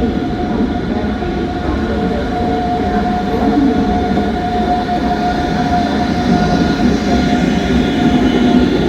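A train moving through the station: a steady rumble with a high, even whine held through most of it.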